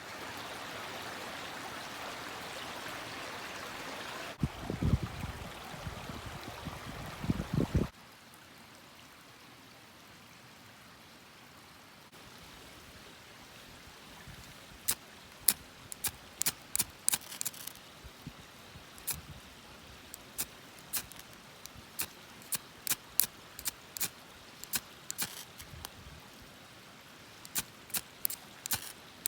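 Running water rushing steadily for about eight seconds, with a few low thumps in its last few seconds; it then cuts to a quieter scene where a wood campfire crackles with sharp, irregular pops.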